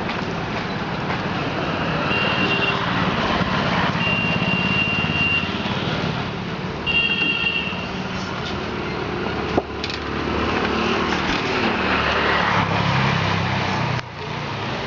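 Street traffic: motor vehicle engines running steadily, with vehicle horns tooting briefly about three times in the first half.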